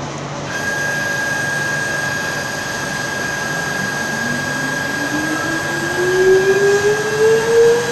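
Jewelry CNC machine's spindle motor running, with a steady high whine from about half a second in. From about four seconds in, a second tone rises steadily in pitch as the spindle speeds up.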